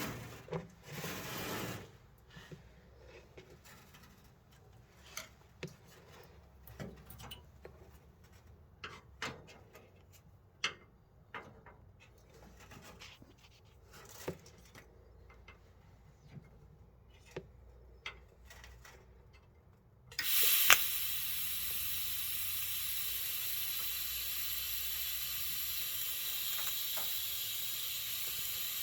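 Scattered light clicks and knocks of metal parts being handled. About two-thirds of the way in, a welding arc strikes with a sharp crack and then runs as a steady hiss.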